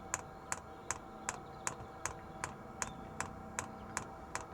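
Diesel heater's fuel dosing pump ticking steadily, about two and a half clicks a second, as it primes the new fuel line and pushes diesel toward the fuel filter.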